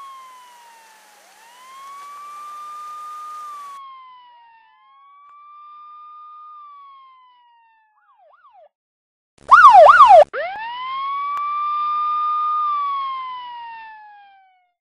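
Police siren wailing in slow rising-and-falling cycles of a few seconds each, broken a little past halfway by a short, much louder burst of fast yelping before the slow wail winds up again.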